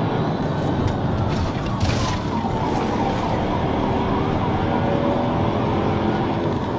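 Police siren wailing slowly up and down over heavy vehicle engine and road noise.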